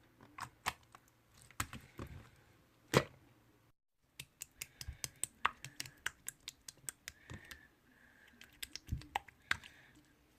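Close-miked eating-ASMR sounds: a run of sharp clicks, taps and crunches from snacks and their packaging, irregular and fast in places, with a brief break about four seconds in.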